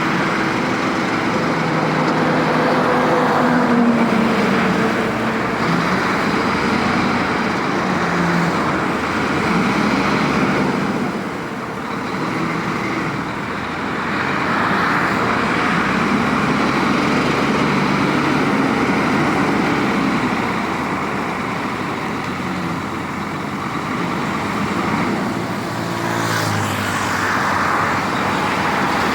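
Heavy diesel tipper truck engine running loudly under load, its pitch rising and falling repeatedly as it revs and changes gear, with road noise around it.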